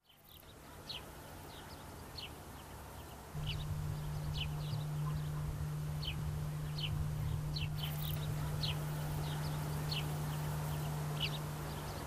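Birds chirping: short, high calls repeating irregularly, one or two a second, over a steady low hum that gets louder about three seconds in.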